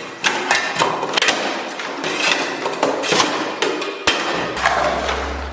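Rapid, irregular thuds and wet smacks of hands pounding and mashing cake batter in a mixing bowl, mixing it by hand.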